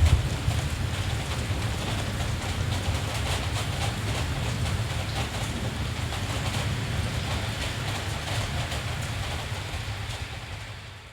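Steady rain with a constant low rumble underneath, fading down near the end.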